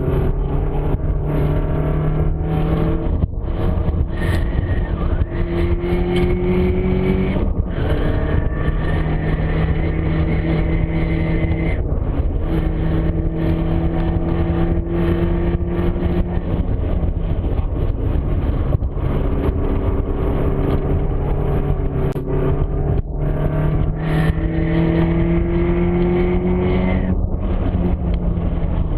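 Nissan KA24DE four-cylinder engine pulling hard and rising in pitch, cutting out briefly several times between pulls as gears change. A faint high whine rises with it while in gear. This is the intermittent transmission whine in the S14 powertrain.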